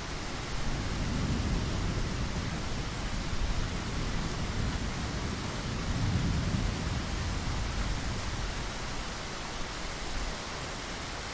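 Steady rain hiss with low rolls of distant thunder, one about a second in and another around six seconds.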